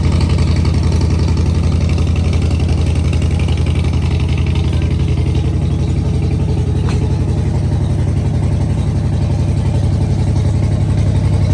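Car engine idling loudly and steadily, with a rapid, even firing pulse.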